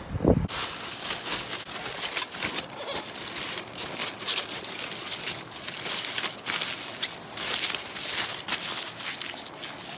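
Dense crinkling and crumpling, many small crackles close together.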